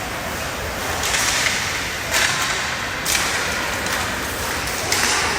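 Hockey skate blades scraping the ice in four short, sharp hissing bursts, over the steady noise of the rink.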